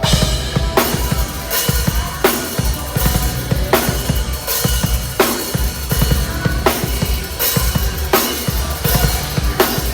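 Live metal band playing loudly, the drum kit driving a dense bass-drum pattern with a heavy accented hit about every three-quarters of a second.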